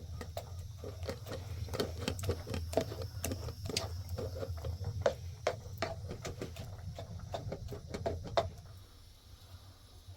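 Rapid, irregular clicking and tapping over a low steady hum, both stopping about eight and a half seconds in.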